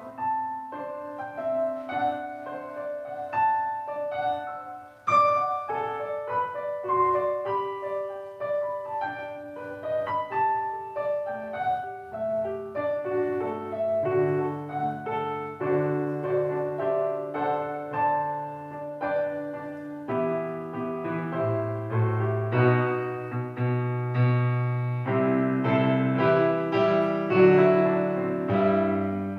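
Solo piano playing a slow, gentle piece of single melody notes over light chords; a lower bass line comes in about halfway through and the chords grow fuller toward the end.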